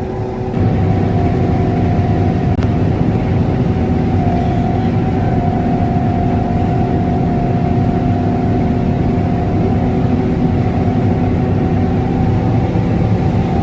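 John Deere S660 combine running steadily under load, a dense machine hum with a few constant tones. It gets louder about half a second in and stays even after that.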